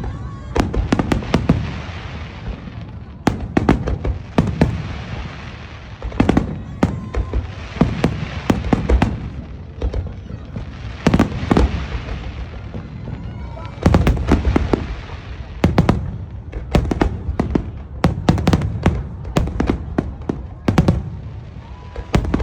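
Fireworks going off in rapid volleys: clusters of sharp bangs every couple of seconds, with a hissing crackle from the bursts between them.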